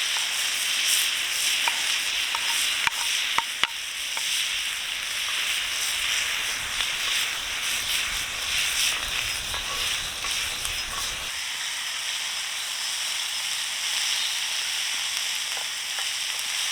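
Food frying on a cast iron griddle over a campfire: a steady sizzle, with a few sharp pops in the first few seconds.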